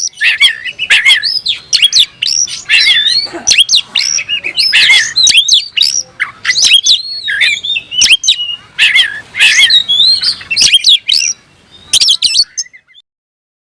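Oriental magpie-robin (kacer) singing a loud, rapid, varied song of whistles, slurred phrases and sharp clicking notes. This is the full, vigorous 'gacor' song of a bird challenging a rival. It stops abruptly near the end.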